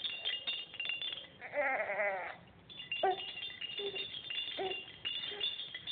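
Baby rattle jingling quickly and repeatedly with high bell-like tinkles, while an infant gives a short wavering whimper about a second and a half in, then several brief grunts.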